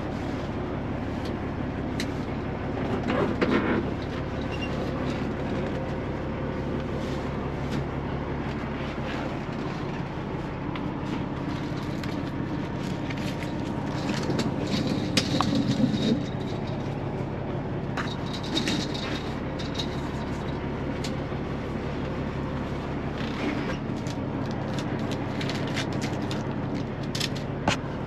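Diesel semi-truck engine idling, a steady low hum, with scattered clicks and two short bursts of rustling, about three and fifteen seconds in.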